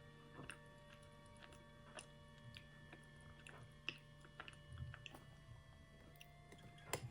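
Faint chewing and small mouth clicks from eating sweets, scattered irregularly, with two sharper clicks about four seconds in and near the end, over soft sustained background music.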